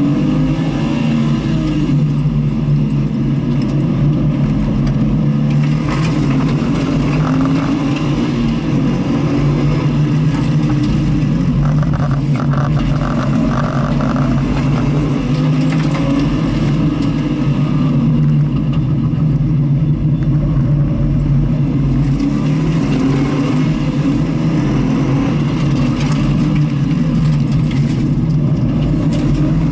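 Onboard sound of a vehicle driven on a race circuit: its engine runs continuously, the pitch swelling and dropping with throttle and gear changes, over a steady low rumble.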